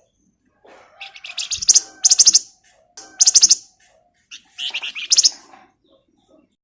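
A flamboyan (Javan fulvetta) singing in three bursts of rapid, high-pitched chattering trills, with short pauses between them.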